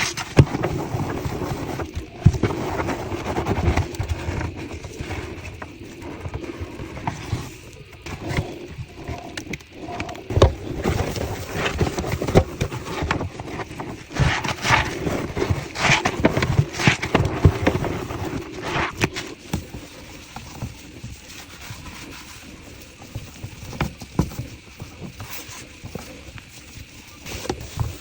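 Close-miked washing machine cleaning: irregular taps, clicks and knocks mixed with scrubbing and rubbing against the machine's surfaces.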